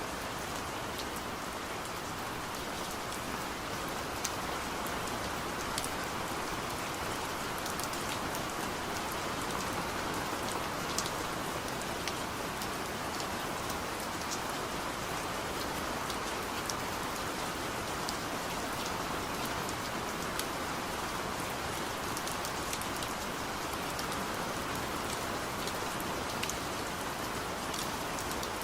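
Steady rain falling, an even hiss with scattered sharper drops pattering through it.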